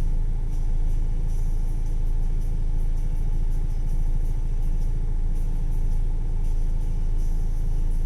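Car engine idling: a steady low rumble with a constant faint hum over it.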